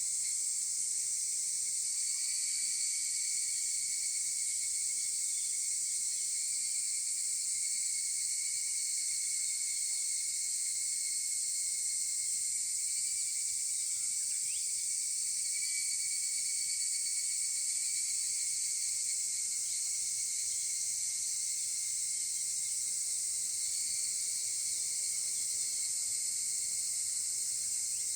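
A chorus of higurashi cicadas (Tanna japonensis) calling: a steady, high-pitched shrill drone with no pauses.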